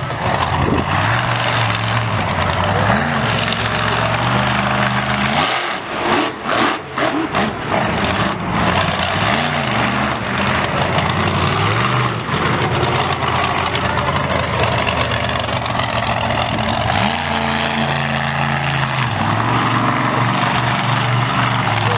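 Loud monster truck engine running hard and revving, its pitch stepping up and down, with several quick throttle lifts about six to eight seconds in.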